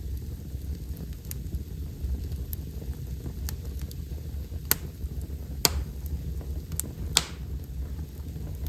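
Wood fire burning in a fireplace, crackling with scattered small snaps and three louder sharp pops in the second half, over a steady low rumble.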